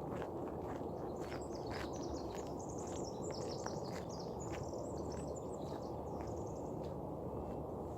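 A songbird singing a quick, high twittering song from about a second in for four or five seconds, over a steady low background rumble and the regular crunch of footsteps on a forest trail.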